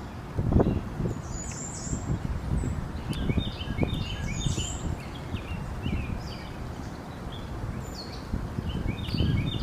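Close-miked chewing and mouth sounds of a person eating pork chop, coming in irregular bursts. Small birds chirp repeatedly in the background.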